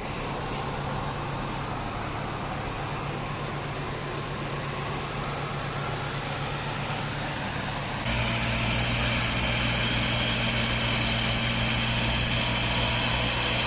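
Tram track cleaning machine running with a steady engine hum. About eight seconds in the sound changes abruptly to a louder, steady hum with a higher whine over it.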